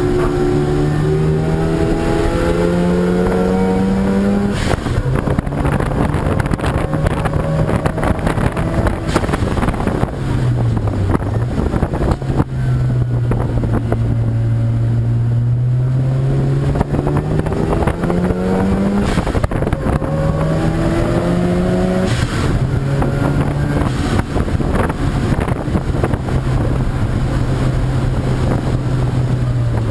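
Race car engines running hard on a circuit, climbing in pitch through the gears and dropping back at each shift, again and again. A dip and recovery of the engine note comes at about a third of the way in and again near the end.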